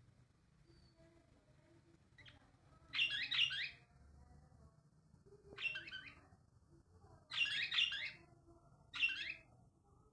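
A bird chirping in four short bursts of quick, complex notes, each under a second long and a couple of seconds apart.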